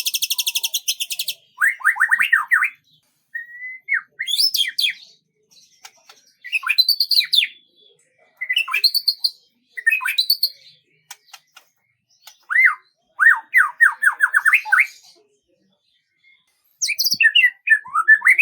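A songbird singing in separate short phrases: a buzzy rattle, quick trills of down-slurred notes and high chirps, with brief pauses between phrases.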